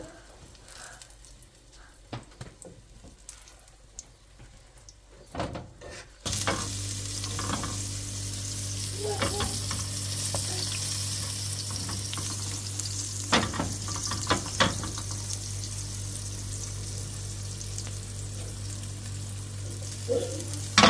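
Food sizzling as it fries in a pan, starting abruptly about six seconds in as a loud steady hiss over a low hum. A few sharp knocks of a utensil against the pan come through it. Before the sizzling starts there is only quiet with small clicks.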